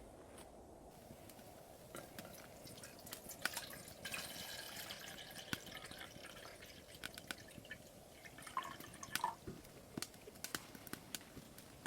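Liquid dripping and trickling, with many scattered small clicks and plinks over a low steady hiss.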